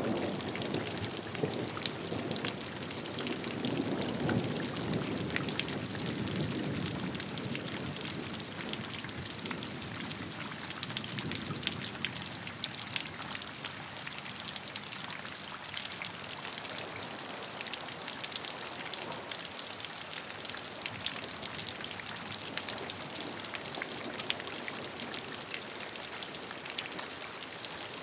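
Steady rain falling, with many separate drops ticking, and a low roll of thunder that dies away over the first dozen seconds or so.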